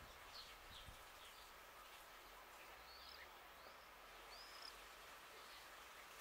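Faint birds chirping in an otherwise near-silent outdoor background: a scatter of short chirps and little curved whistles.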